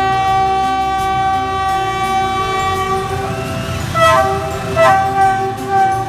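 Train horn sounding a long held blast that stops about three seconds in, followed by three short blasts, over the low rumble of the passing train.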